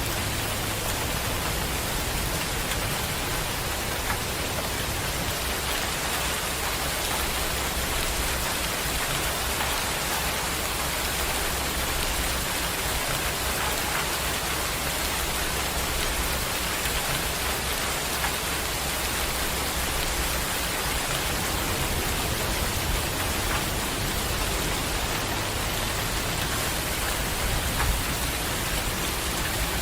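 Steady heavy rain falling, an even hiss of many pattering drops. A low rumble underneath drops away about two-thirds of the way in.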